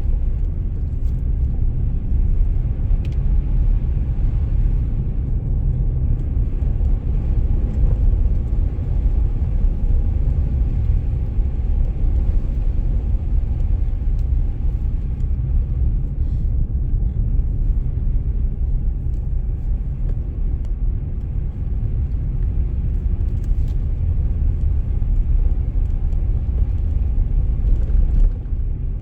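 Steady low road rumble of a car being driven through snow, tyre and engine noise heard from inside the car.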